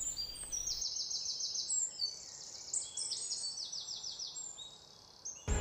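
Songbirds singing: quick runs of short, high, falling notes repeated over and over, fading out a little before the end.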